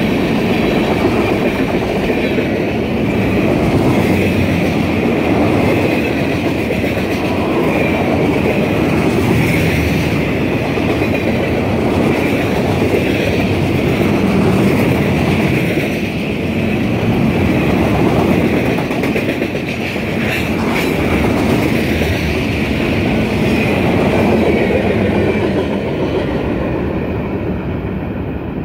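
Freight train rolling past: steel wheels of tank cars and flatcars loaded with concrete ties running on the rails, with a steady high ring over the rolling noise and a single clank a little past two-thirds of the way through. It fades slightly near the end as the last car moves away.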